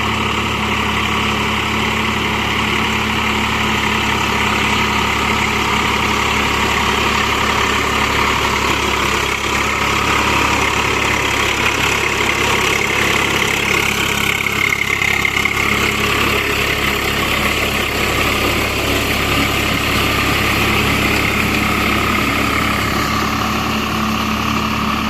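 Swaraj 744 FE tractor's three-cylinder diesel engine running steadily and loud while driving a Bull Agro rotavator.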